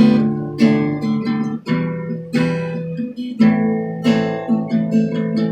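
Acoustic guitar strumming chords, each one ringing out, with a new strum roughly every second: an instrumental passage between sung lines.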